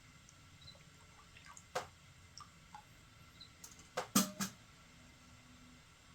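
A few sharp, irregular taps over a faint steady background: one about two seconds in, then a louder quick cluster of three about four seconds in.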